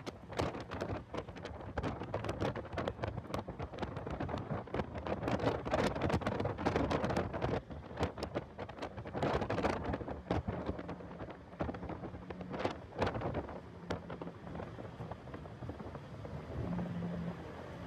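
Heavy wind buffeting on the microphone of a car being driven at track pace, with the engine heard underneath as a steadier tone in the later seconds.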